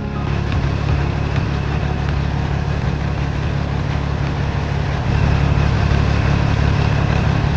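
A vehicle engine running steadily, deep and even, with no change in speed.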